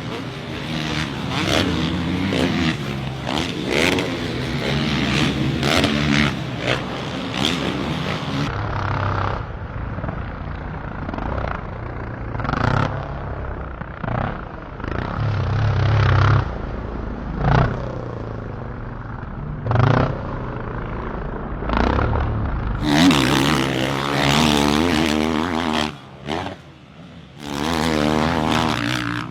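Motocross bike engines revving, their pitch repeatedly rising and falling as the bikes accelerate and back off.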